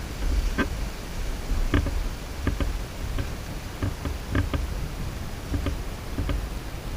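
A bird pecking at the feeder close to the microphone: about a dozen irregular sharp taps, each with a dull thump.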